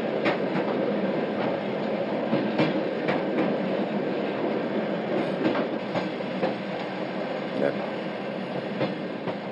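Steady running noise inside a moving electric commuter train carriage, with scattered light clicks and knocks over the rumble.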